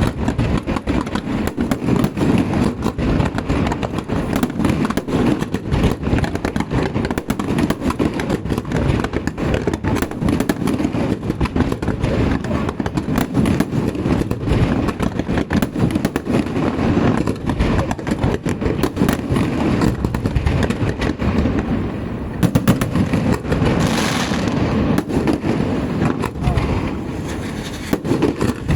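Festival fireworks going off in a rapid, continuous barrage of bangs and crackles, with a brief hissing rush near the end.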